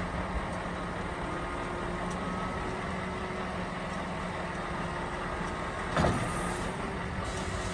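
Heavy vehicle engine running steadily, with a short sharp hiss or clank about six seconds in.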